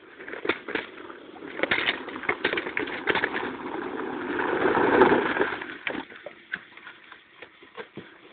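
A car driving over the rough dirt of a motocross track: a string of knocks and rattles over engine and tyre noise that swells to a peak about five seconds in, then dies down.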